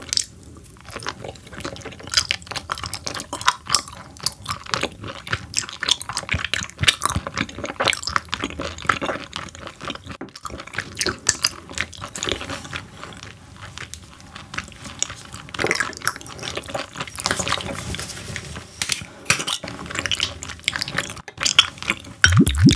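Close-miked chewing of raw croaker (minuh) sashimi: soft, wet mouth clicks and smacks throughout. Near the end, clear soju starts pouring from a green glass bottle into a shot glass.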